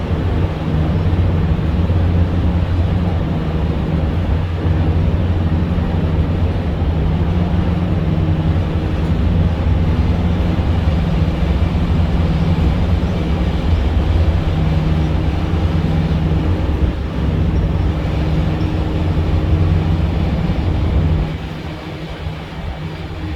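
Boat engine running steadily with a low hum and water noise, easing to a lower level near the end.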